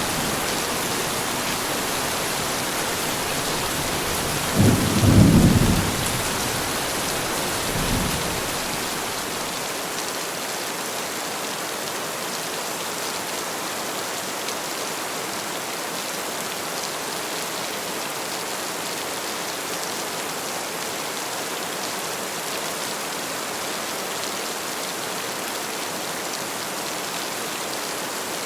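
Heavy rain falling steadily, with a loud burst of thunder about five seconds in and a smaller rumble about three seconds later.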